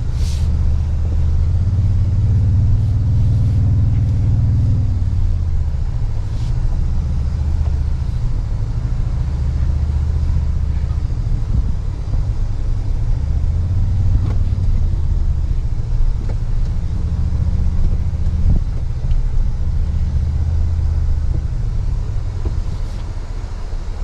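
Toyota Tundra pickup's engine heard from inside the cab while crawling an off-road trail, a low drone that swells and eases off several times as the throttle is worked.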